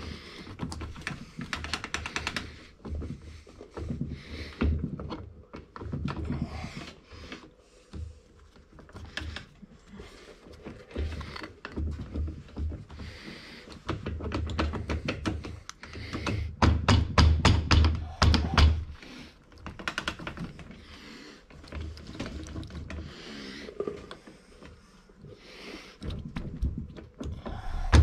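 Irregular metallic taps and knocks of hand tools on the gear-shift cover of a New Holland T480S tractor, with a fast run of strikes about two-thirds of the way through, as the broken shift-rail pins are worked out.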